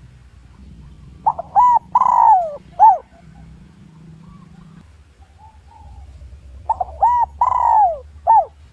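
Spotted dove decoy bird cooing, two phrases about five seconds apart. Each phrase is a couple of short coos, a longer falling coo and a short closing coo: the territorial call used to lure wild doves in to fight.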